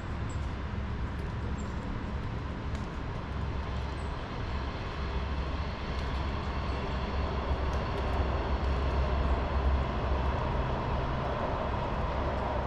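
Low rumble of a passing vehicle, growing louder about halfway through and easing off near the end, with a few faint, short, high bird chirps in the first few seconds.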